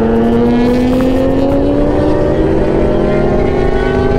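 A high-revving engine running hard, its pitch climbing slowly and steadily as the vehicle accelerates.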